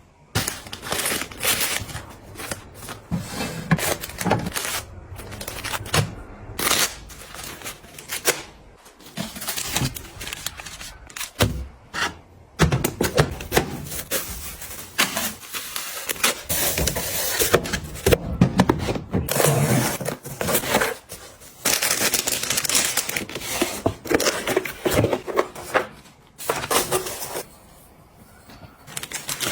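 Packaging and containers being handled and set down: irregular clicks, taps and knocks mixed with short scrapes and crinkles.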